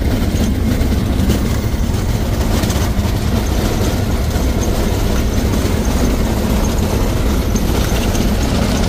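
Cessna 172's piston engine and propeller running steadily, heard from inside the cockpit as a loud, even drone.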